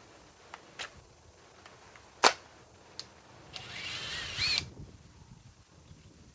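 Metabo HPT WH18DBDL2 cordless impact driver on a FLEX battery adapter, triggered for about a second with a rising motor whine. Before it come a few sharp clicks, the loudest about two seconds in.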